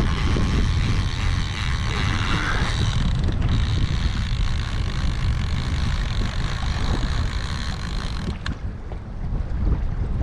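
Wind buffeting the microphone on a kayak at sea, with water hissing along the hull. The high hiss cuts off sharply with a click about eight seconds in.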